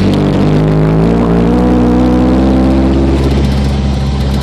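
Ford Ranger pickup's engine accelerating with its exhaust off, loud and rising in pitch for about a second and a half, then holding steady before easing off near the end. It is pulling hard in a low gear.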